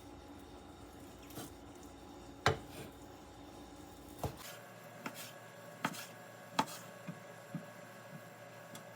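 A knife knocking on a cutting board as cooked brisket is cut into cubes: about nine sharp, irregular strikes over a faint steady hum.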